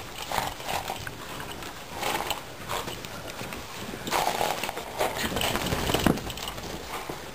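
Horses and a miniature pony moving about in snow, with irregular muffled bursts of hoof and body noise a couple of seconds apart.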